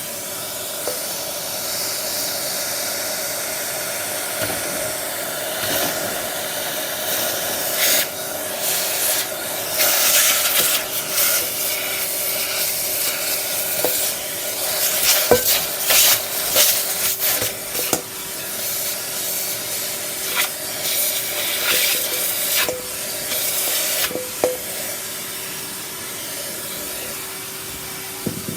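Vacuum cleaner running steadily, with irregular scraping and rattling bursts in the middle stretch as it is worked over the surface.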